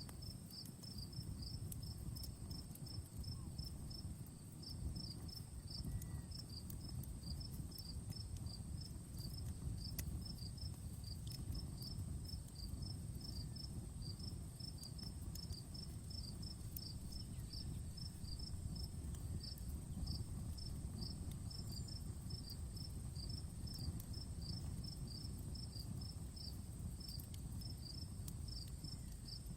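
Outdoor wood fire crackling, with scattered sharp pops over a low steady rumble. A cricket chirps evenly throughout, about two to three high chirps a second.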